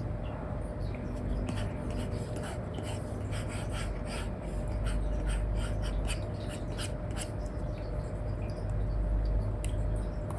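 Apple Pencil 2 with an Elecom nib scratching and tapping across a paper-like screen film on an iPad in many short, quick strokes, over a steady low hum.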